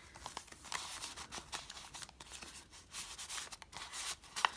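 Paper pages, pockets and tags of a handmade junk journal being handled and turned: irregular paper rustling and rubbing with small clicks, and a sharper click near the end.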